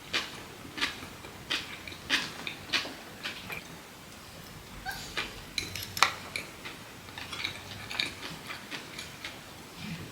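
Close-miked chewing and mouth smacking of someone eating a poke bowl: a run of short wet clicks about once or twice a second, coming faster in the second half.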